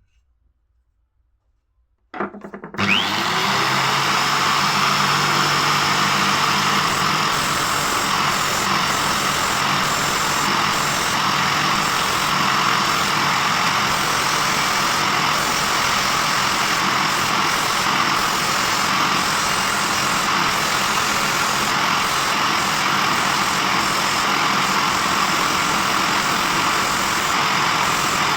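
Electric power tool switched on about two seconds in, its pitch rising briefly as it spins up, then running steadily and loudly.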